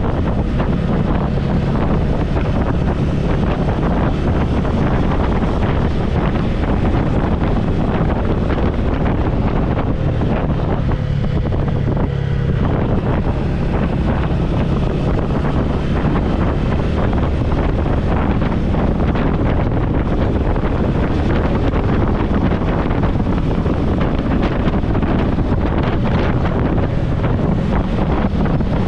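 Motorcycle engine running steadily while riding, under heavy wind noise on the helmet-mounted microphone.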